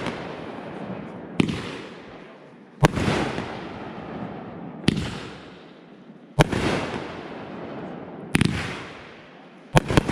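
Consumer aerial fireworks going off in a steady sequence: six sharp bangs, one every one and a half to two seconds, each followed by a fading rush of noise.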